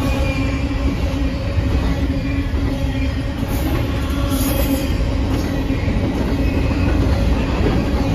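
Double-stack intermodal container train rolling past close by: a steady, loud rumble of wheels on rail, with a humming tone running under it.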